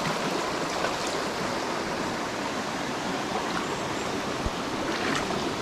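Mountain stream water rushing steadily over rocks, with a few faint ticks near the end.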